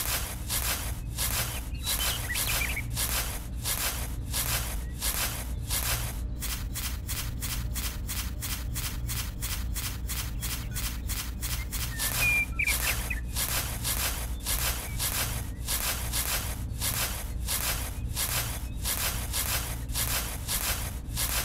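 Tiny metal spade scraping through dry sand in short, even strokes, about two a second, quickening to about four a second for several seconds in the middle.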